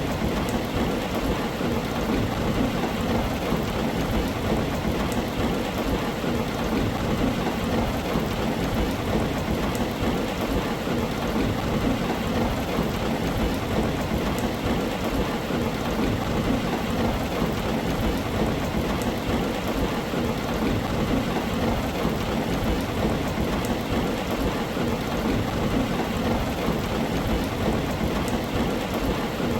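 Heavy rain falling steadily on a tin roof, with a low rumble of distant thunder underneath.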